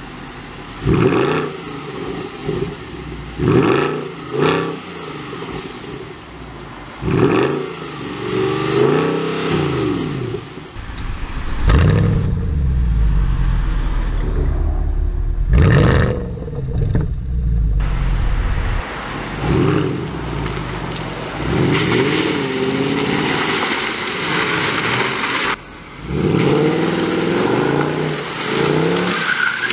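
Mercedes-Benz C63 AMG (W204) naturally aspirated 6.2-litre V8 revved hard again and again through its exhaust, each rev blip rising and falling in pitch. A deeper, steadier rumble holds for several seconds around the middle.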